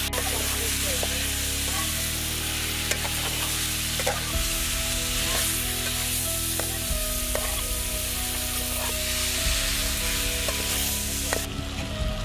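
Masala-coated chicken pieces sizzling as they fry in a steel pan, stirred with a spoon that clicks and scrapes against the metal now and then. The sizzle drops near the end.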